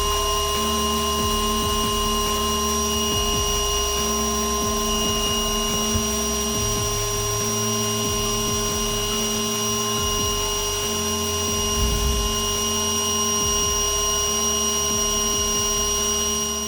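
Bee vacuum's motor running steadily with a constant whine and hum while it sucks up honeybees from a hive cutout.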